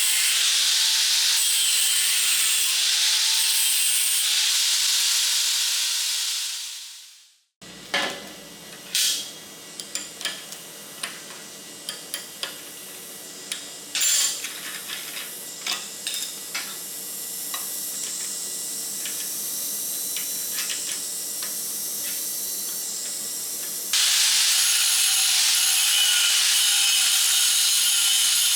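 Workshop tool work: a steady rasping noise of sawing or grinding, which fades out at an edit. A stretch of scattered sharp clicks and knocks follows, like parts being handled and tapped, and the rasping noise starts again near the end.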